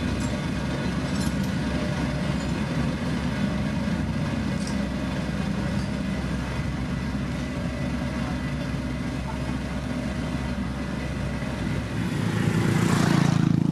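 Heavy diesel construction machinery running steadily with a low drone. Near the end a loud rushing hiss swells up and peaks.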